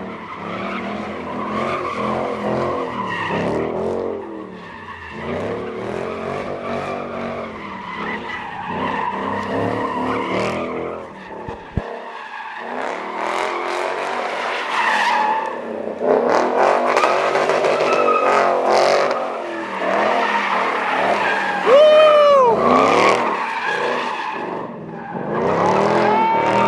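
Cars doing burnouts and donuts: engines revving up and down and tyres squealing and skidding, getting louder in the second half.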